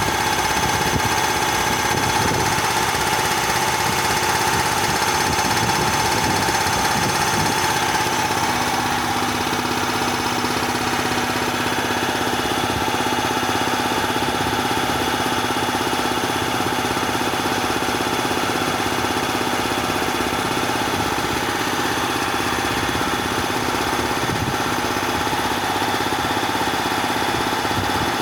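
Bauer 330-bar high-pressure air compressor running steadily, a continuous mechanical drone with a high whining tone; the sound shifts slightly about eight seconds in.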